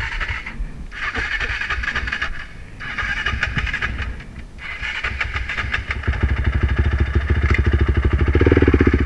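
Dirt bike engine: three separate bursts of a higher rasping sound in the first six seconds, then from about six seconds a close engine with a low, rapidly pulsing beat that grows louder near the end.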